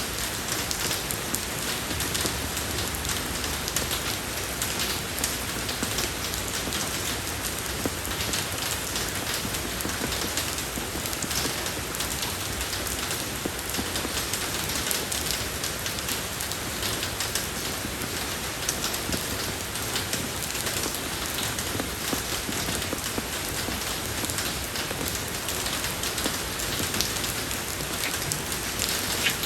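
Steady rain falling on a road surface, a dense even hiss with many small drop ticks.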